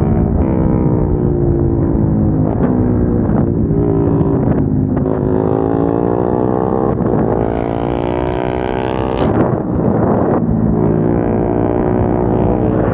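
Single-cylinder sport motorcycle engines with aftermarket exhausts accelerating hard. The pitch climbs in each gear and breaks at upshifts about every two seconds, four times.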